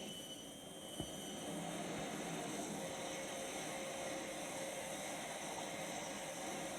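Electric train running: a steady rushing noise with a faint steady whine, growing a little louder about a second in, with one short click.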